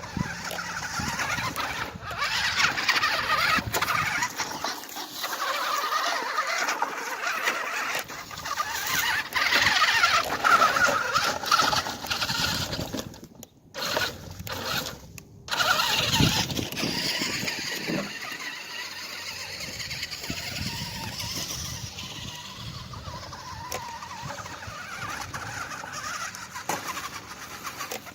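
Radio-controlled truck driving, its motor speeding up and slowing down with varying pitch, along with the rush of its tyres. The sound cuts out briefly twice about halfway through.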